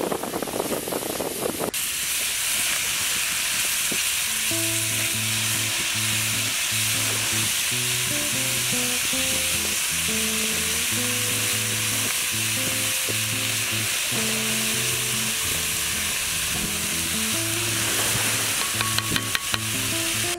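Chopped green onion and corn kernels sizzling steadily in oil in a cast-iron grill pan while being stirred with a wooden spatula, the sizzle coming up to full strength about two seconds in. Background music with a simple melody comes in about four seconds in, and a few sharp clicks from the stirring sound near the end.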